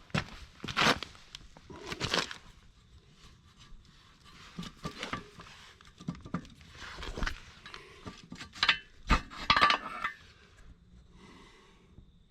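Scattered short metallic clinks, scrapes and knocks from working the excavator blade's steel retaining pins by hand, with footsteps between them.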